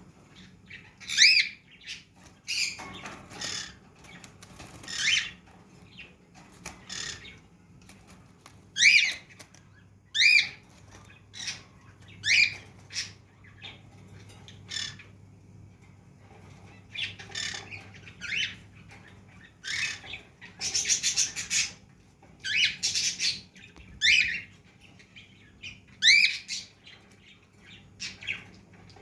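Pet cage birds calling: short, shrill, upward-sweeping squawks repeated every second or two, with a quick run of rapid chattering calls about two-thirds of the way in.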